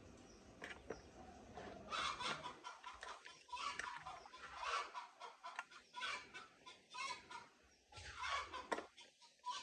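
Chickens clucking: a run of short, irregular calls starting about two seconds in.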